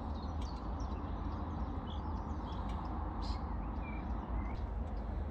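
Small birds chirping and whistling in scattered short calls over a steady low rumble.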